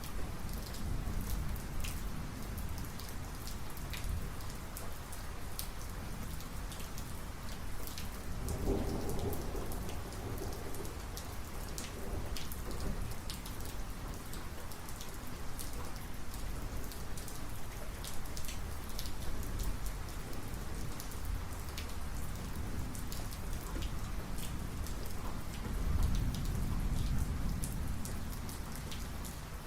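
Heavy thunderstorm rain falling steadily, with sharp individual drops striking close by. Thunder rumbles low beneath it, with a stronger rumble about nine seconds in and another swell near the end.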